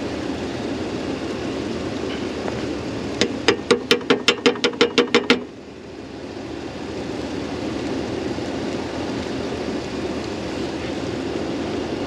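Steady low rumble of an idling pickup truck. About three seconds in comes a quick run of about a dozen sharp clicks over two seconds, roughly six a second.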